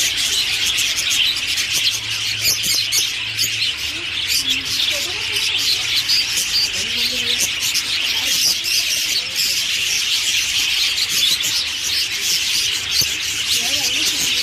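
Many small caged birds chirping all at once, a dense and unbroken chorus of high, quick chirps.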